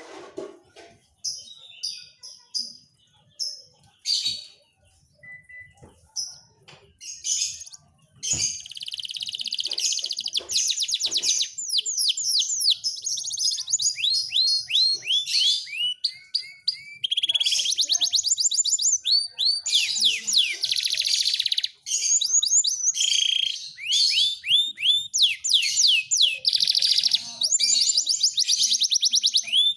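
Domestic canary of the pied 'panda' variety singing: scattered short chirps for the first several seconds, then from about eight seconds in a long, continuous song of fast trills and quickly repeated down-sweeping whistled notes.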